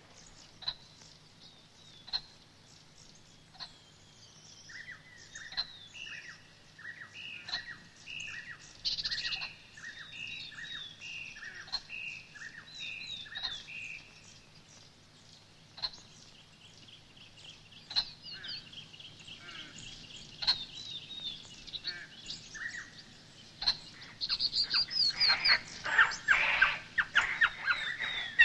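Birdsong: scattered single chirps, then from about five seconds in a steady series of repeated short whistled calls. Over the last few seconds the calls grow louder and denser into a chattering chorus.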